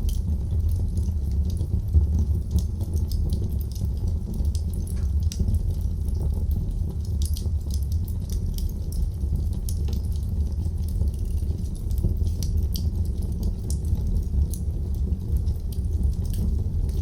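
Wood fire burning in a fireplace, crackling: a steady low rumble under frequent small pops and snaps.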